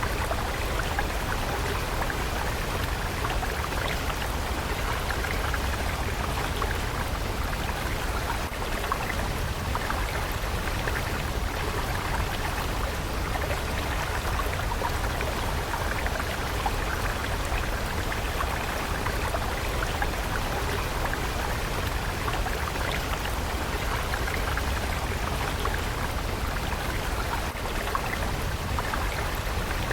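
Water stream flowing steadily, an even rushing and splashing with no change.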